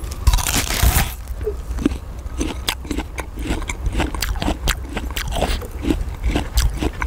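Raw jicama being bitten and chewed right up against a microphone: a loud crisp bite about a second in, then a steady run of crunches, several a second.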